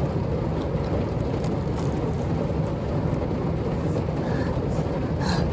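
Heavy rain drumming steadily on the roof of a camper van, heard from inside.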